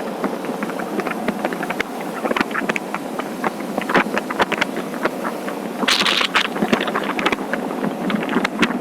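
Wind buffeting the camera microphone on a moving motorcycle, a steady rush broken by many short crackles, with the bike's buzzing engine and road noise under it. A brief louder hiss about six seconds in.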